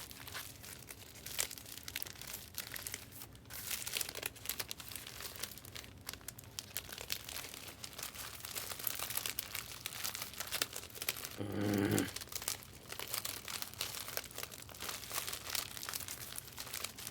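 Crinkly wrapping of trading card packs being handled and torn open, a continuous rustling crackle with sharp crinkles throughout. A short low hum cuts in briefly about two-thirds of the way through.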